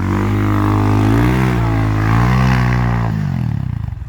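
Enduro motorcycle engine running steadily near idle, with two small rises in pitch. It is switched off about three seconds in, and its firing slows to a stop near the end.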